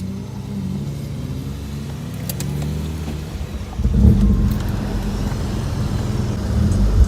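Car engine running steadily, then louder and rougher from about four seconds in as it is given more throttle.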